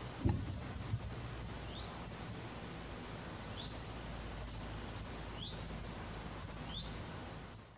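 A small bird's short, quickly rising calls, repeated about once a second or so, the two in the middle loudest, over a steady outdoor background. A low thump sounds just after the start, and the background fades out at the end.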